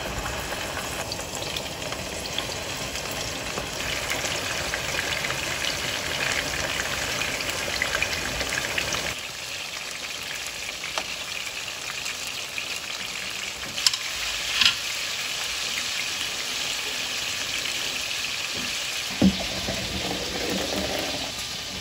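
Seasoned chicken tenderloins sizzling steadily as they fry in hot oil in a pan, with a couple of brief clicks midway. Near the end, hot pasta water is poured out of the pot into a plastic colander in a steel sink.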